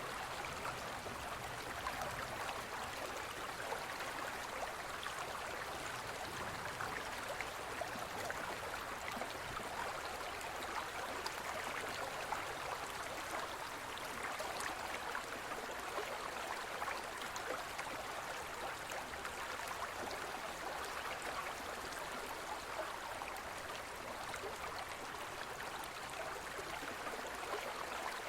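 Gentle forest stream flowing, a steady rush of water with fine babbling detail.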